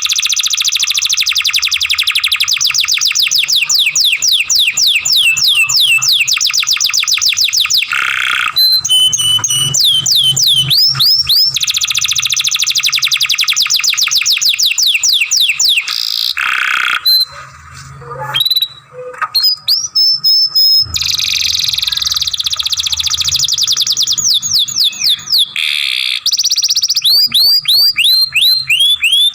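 Domestic canary singing long, rapid rolling trills, each built from fast repeats of the same downward-sweeping note and shifting from one trill to the next. The song breaks off briefly about two-thirds of the way through, then resumes.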